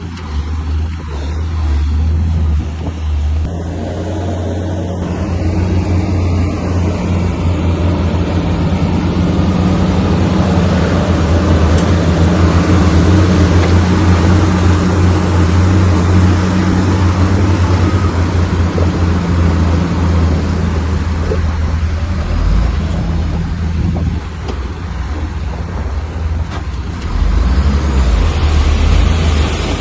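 Bulldozer's diesel engine running under load with a continuous low drone. A heavy noisy rush of working sound builds up and is loudest in the middle, eases, then rises again near the end.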